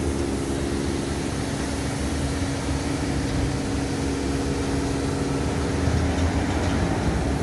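Car engine running steadily: a constant low hum with a few steady tones and a wash of noise.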